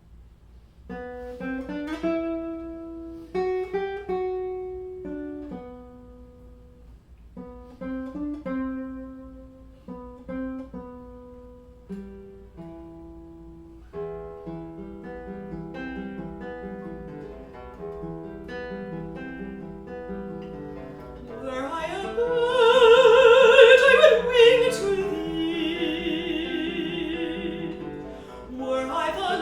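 Guitar playing a plucked introduction of spaced chords and single notes, then about 21 seconds in a classically trained voice enters, singing loud held notes with wide vibrato over the guitar: an art song for voice and guitar.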